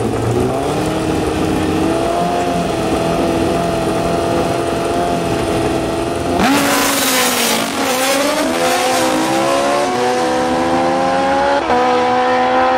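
Drag-racing engine held at steady high revs on the start line, then launching about six seconds in with a sudden loud blast and tyre squeal. The engine pitch dips and then climbs in steps as the vehicle accelerates down the strip.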